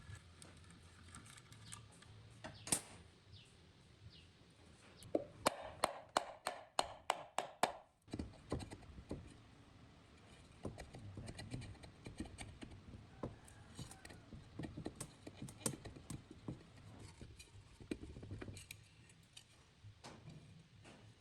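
Workshop handling noises from work on an old ceiling fan: scattered clicks and knocks of tools and metal parts, with a run of about a dozen quick, evenly spaced taps from about five to eight seconds in.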